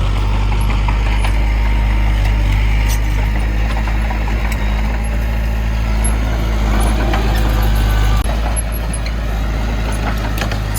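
Heavy diesel machinery engine running steadily, a deep even hum, with a few light clicks and knocks on top.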